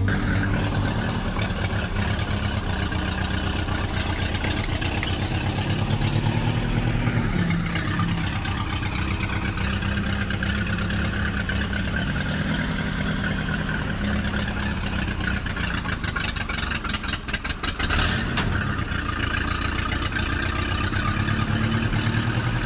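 An engine running steadily with a fast low putter, its pitch rising and falling a little at times; a sharp click about eighteen seconds in.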